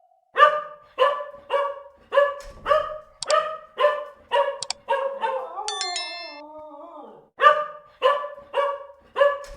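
An animal calling over and over: short, sharp pitched calls about every half second, broken about midway by a longer call that falls in pitch.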